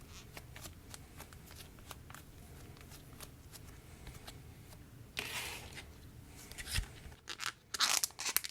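Slime being put away in a plastic container and the container handled: faint clicks and soft squishes, a longer rustle about five seconds in, then a run of sharp crackles and clicks near the end.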